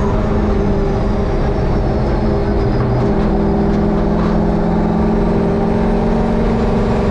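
Turbocharged 5.7-litre LS1 V8 of a 1951 Chevy race truck running at steady engine speed, its pitch shifting slightly about three seconds in. The engine is held to low boost, under 4 psi, because the wastegate boost reference sits at the compressor.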